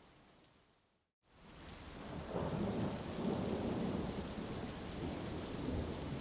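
Heavy rain hiss fades out to a moment of complete silence about a second in, then fades back in as a long rolling rumble of thunder builds from about two seconds in and carries on over the rain.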